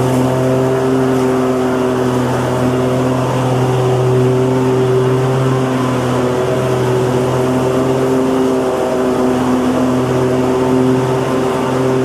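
Lawnmower engine running steadily at a constant speed, a droning hum over a noisy rush, with no change in pitch or load.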